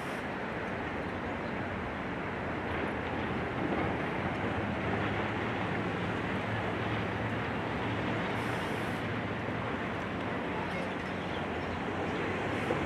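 Demolition excavator's diesel engine running steadily under a continuous wash of mechanical noise, with a low hum and no distinct impacts.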